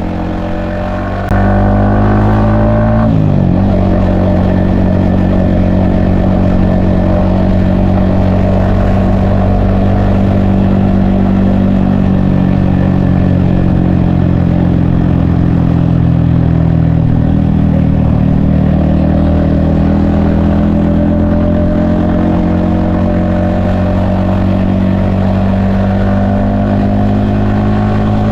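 Yamaha XSR155's 155cc single-cylinder engine under way, heard from the rider's helmet. It pulls up through the revs with a surge in loudness about a second in, and a quick dip and recovery in pitch about three seconds in, like a gear change. Then it holds a steady cruise, with the revs easing briefly past the middle and climbing again near the end.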